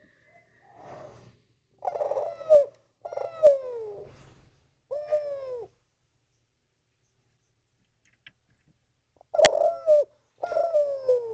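Spotted dove (derkuku) cooing: a phrase of three downward-sliding coos, a pause of about three seconds, then two more coos. A sharp click comes at the start of the second phrase.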